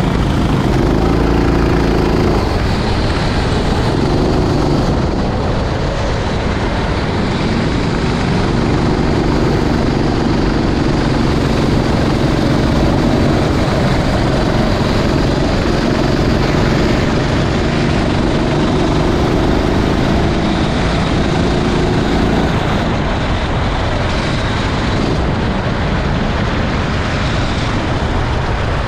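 Kart engine running on board at racing speed, its pitch climbing and dropping again and again as the revs change, under a steady rushing noise.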